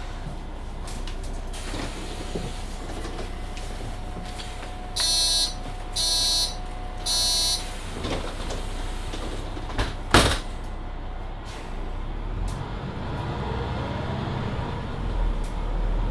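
Inside a Mercedes-Benz Citaro C2 hybrid city bus at a stop: three short warning beeps about a second apart, the door-closing signal, then a sharp knock as the doors shut and lock. In the last few seconds the bus pulls away, its drive rising in pitch.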